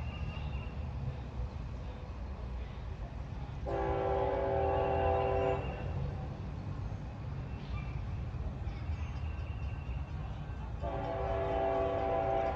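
Locomotive air horn sounding two long blasts, each a chord of several notes, over the steady low rumble of a passing train.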